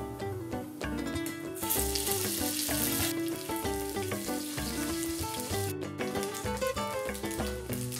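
Octopus tentacles sizzling as they sear in hot oil in a frying pan, over acoustic guitar music. The sizzle starts about one and a half seconds in and cuts off suddenly near six seconds.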